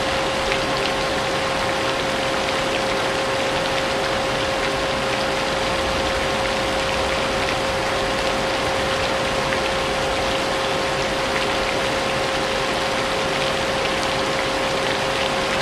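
Vacuum cleaner motor running steadily with a constant whine, layered with falling rain.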